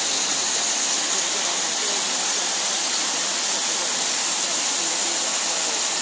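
Heavy rain falling steadily, a dense, even hiss of water that holds at one level.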